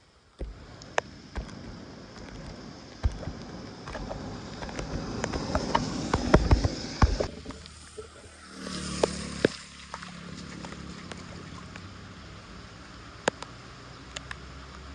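Water gurgling and sloshing, with scattered sharp knocks and clicks. The rushing builds for several seconds, then drops away about halfway through, leaving a low steady hum.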